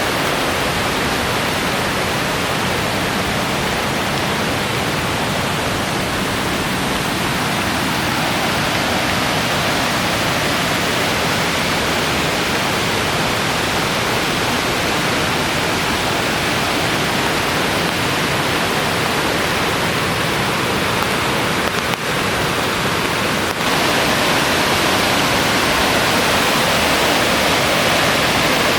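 Swollen creek in flood, fast water rushing steadily. It gets a little louder for the last few seconds.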